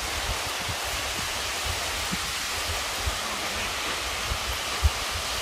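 Steady wash of surf on a sandy beach, with irregular low thumps on the microphone, the strongest near the end.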